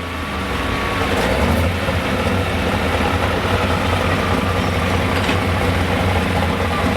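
Heavy diesel tractor engine idling steadily with a low rumble.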